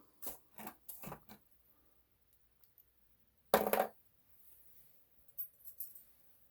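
Small metal hand tools clinking as they are handled and picked through: a few quick clicks, then a louder metallic clank about three and a half seconds in, and light ticks near the end.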